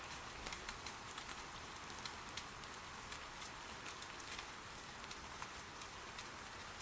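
Soft, steady rain with many small, irregular crackles and pops from wood burning in an irori hearth.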